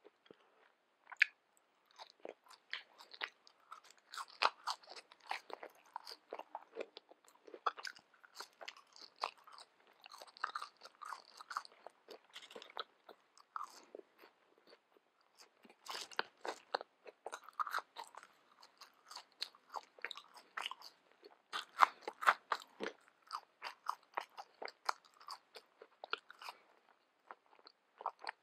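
Close-miked chewing of McDonald's French fries: many short, irregular crunches and wet mouth sounds as fries are bitten and chewed.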